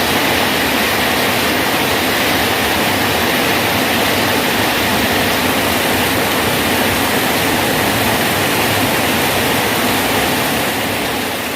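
Rain falling steadily on a bridge as a dense, even hiss, beginning to fade out near the end.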